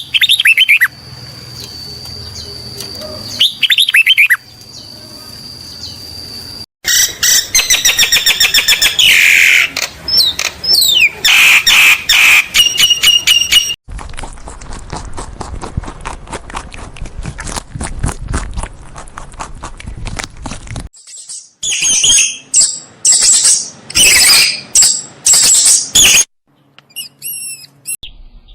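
Birds chirping and calling in quick repeated high notes and short sliding whistles. The sound changes abruptly several times, as one short clip cuts to the next.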